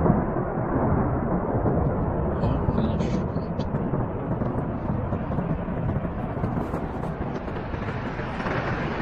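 Loud continuous low rumble and roar of a mass of ice and rock crashing down a mountainside.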